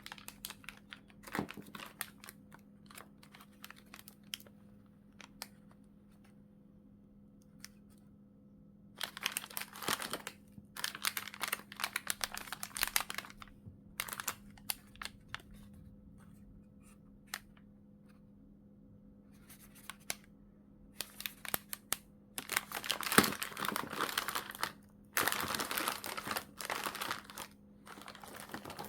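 Plastic (vinyl) packaging crinkling and rustling as merchandise is handled and unwrapped. It comes in bursts: scattered small clicks at first, a run of crinkling about a third of the way in, and a longer run through most of the second half.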